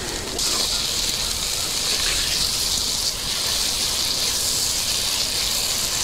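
Ginger-garlic paste, sliced onions and green chillies sizzling in hot oil in a clay pot. The sizzle gets sharply louder about half a second in, then holds as a steady hiss.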